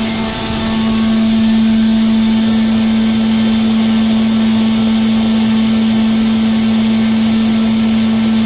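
Pneumatic grain-transfer blower running loud and steady: one constant hum over a rushing hiss of air blowing corn through the transfer tubes.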